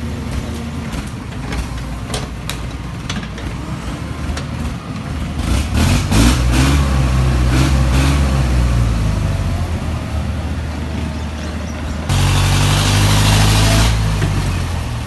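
Hydraulic excavator's diesel engine revving up under load, with scattered metal knocks in the first seconds. Near the end a loud hiss starts suddenly and lasts about two seconds.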